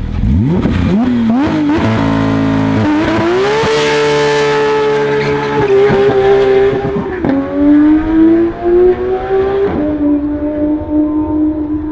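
Porsche 991 GT3 flat-six on a Kline Inconel exhaust with headers and 100-cell cat pipes, revving hard in quick blips. It then pulls at high revs, the pitch climbing and dropping suddenly twice in the second half, as at gear changes.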